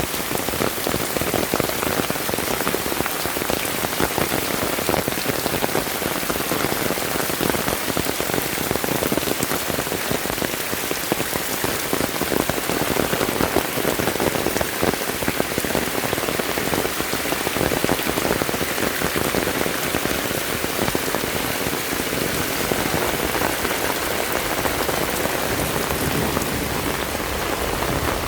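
Heavy rain falling steadily, with dense fine patter of drops striking surfaces.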